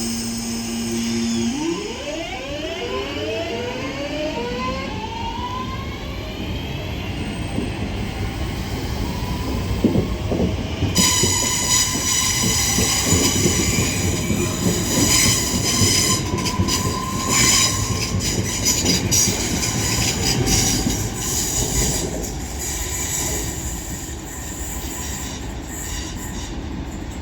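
Northern Class 323 electric multiple unit pulling away, its traction motors whining in several tones that rise in pitch over several seconds. From about eleven seconds in, train wheels squeal and clatter over the rails for around ten seconds.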